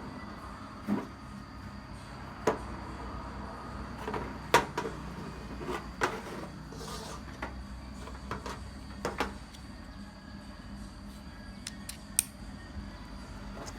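Scattered short clicks and light knocks of small hard objects being handled, a dozen or so spread irregularly, over a steady low background hum.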